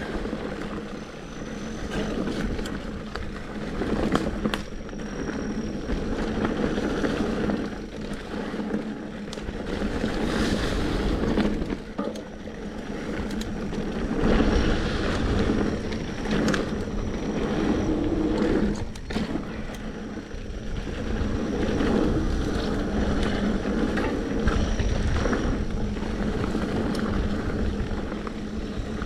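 Mountain bike rolling down a wet dirt trail: a continuous rumble of tyres and bike, with frequent short knocks and rattles as it hits bumps.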